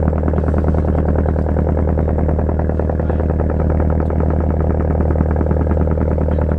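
The fishing boat's diesel engine running steadily: a deep, even hum with a fast, regular beat.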